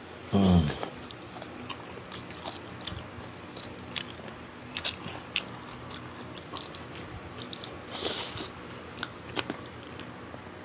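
Close-up mukbang eating sounds: chewing and mouth smacks with scattered sharp clicks of spoon or fork on the dish. A short hummed "mm" of relish about half a second in.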